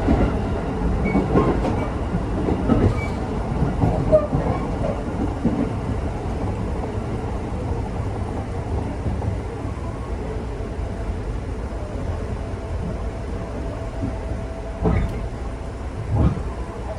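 Electric local train heard from inside the car, its wheels clicking over the rail joints as it slows into a station, the running noise fading away as it draws to a stop. Two sharp knocks near the end.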